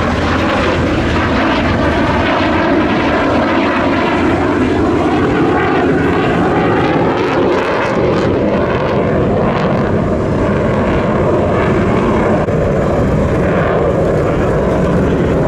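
Aircraft in flight: loud, steady engine and air noise with slowly shifting tones, holding at much the same level throughout.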